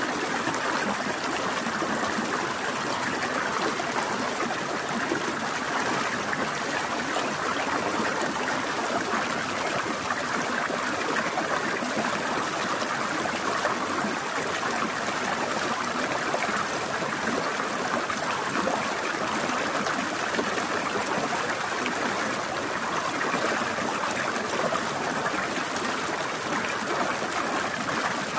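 Small stream flowing over rocks, a steady trickling and babbling of water with no breaks or changes.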